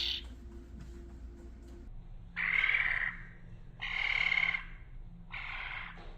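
Juvenile European starling giving harsh, raspy begging calls: three of them about a second and a half apart, each under a second long.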